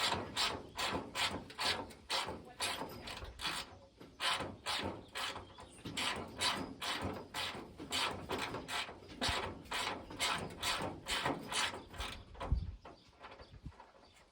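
Hand ratchet wrench clicking in steady back-and-forth strokes, about two to three a second, as a fastener is worked loose; a dull thump near the end as the ratcheting stops.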